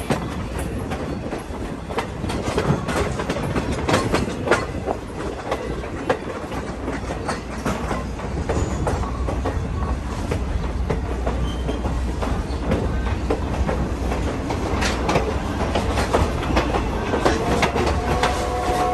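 Passenger railroad coach rolling over jointed track: a steady low rumble with irregular clicks and rattles from the wheels and car body. Just before the end, a steady pitched tone with several notes begins.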